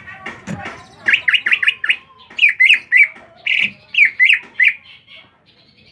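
A small bird chirping: rapid runs of short, sharp chirps, about four a second, in two bursts, fading out near the end.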